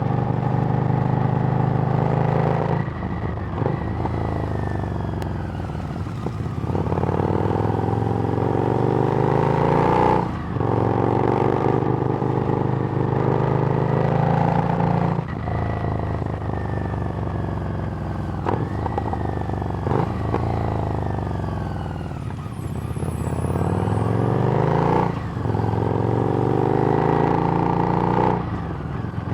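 Harley-Davidson Street Rod's 750 cc V-twin running through a Screamin' Eagle exhaust while riding: the engine note climbs steadily, then drops sharply at each gear change or throttle roll-off, repeating about every three to five seconds.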